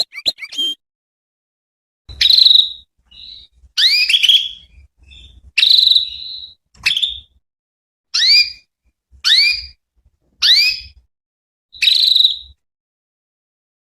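Female canary calling: a series of short, rising chirped calls, about one a second, starting about two seconds in.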